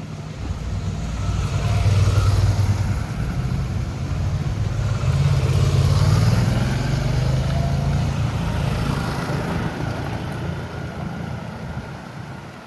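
Loud motor-vehicle engine noise as traffic passes: it swells over the first two seconds, holds with a shifting pitch, and fades away near the end.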